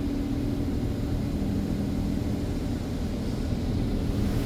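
Steady low mechanical hum of a touchless automatic car wash, heard from inside the vehicle during its triple-foam stage.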